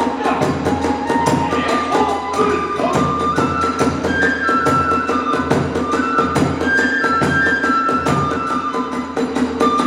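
Kagura hayashi accompaniment: a bamboo flute playing a sustained, stepping melody over a steady beat of drums and clashing hand cymbals.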